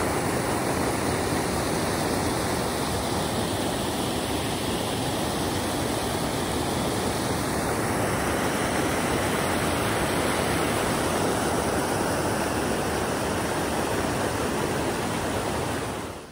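Steady rushing of falling water, an even hiss with no pauses, fading away near the end.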